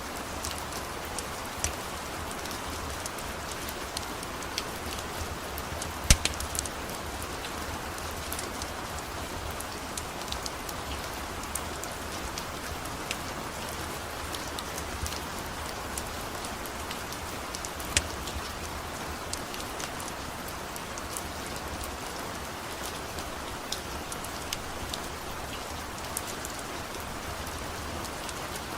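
Steady rain falling, with scattered sharp crackles and pops from a wood fire burning in a fireplace. Two pops stand out louder, about six seconds in and again near eighteen seconds.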